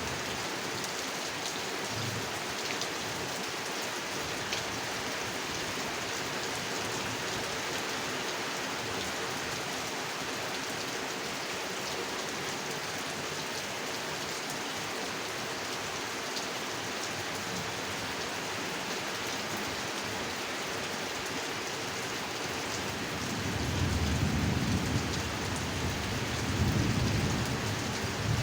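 Steady rain falling, with scattered drops ticking. Near the end, thunder rumbles low in two swells, and these are the loudest part.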